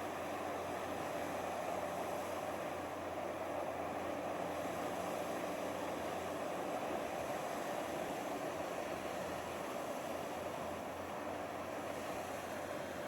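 High-speed boat Queen Beetle's engines running, a steady, even noise that does not change in pitch or loudness.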